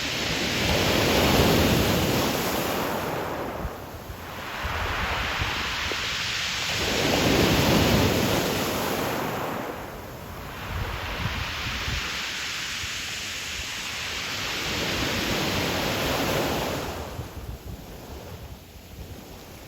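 Ocean surf breaking and washing up the shore. Three big swells of noise come about six seconds apart, each rising and falling away, and the surf eases off near the end.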